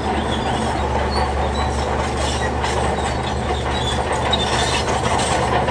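Shantui DH17C3 crawler bulldozer's diesel engine running steadily, with metal clanking and repeated short squeaks from its steel tracks.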